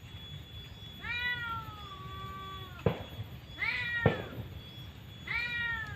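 Three drawn-out, meow-like animal calls, the first the longest and slowly falling in pitch, with two sharp clicks in the middle.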